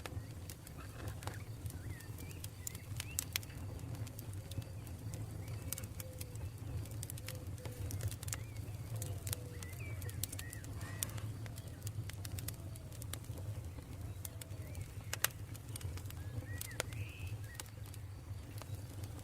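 Campfire burning, with irregular sharp crackles and pops over a steady low rumble. Birds call in the background, short chirps and a run of low falling notes.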